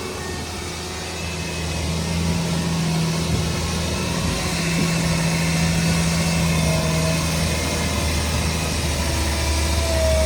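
Shantui DH17 crawler bulldozer's diesel engine running steadily, a low hum that grows louder about two seconds in.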